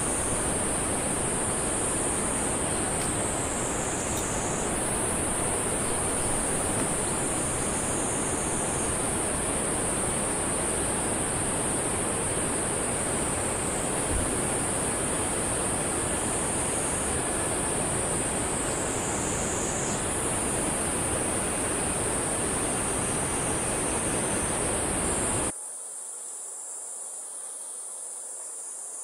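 A high, continuous insect chorus that wavers every few seconds, over a steady rushing noise. Near the end the rushing noise stops abruptly, leaving the insects alone.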